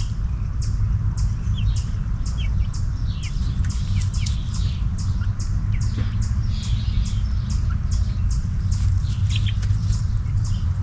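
Newly hatched chicks peeping: many short, high, falling peeps in quick succession, over a steady low hum.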